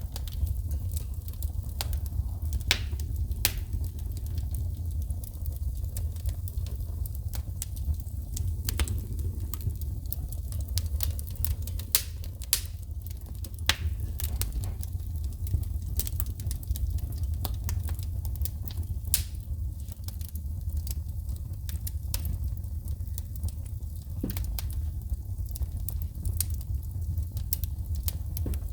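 Wood fire burning in a fireplace, crackling with frequent sharp pops and snaps of sparks over a low steady rumble of the flames.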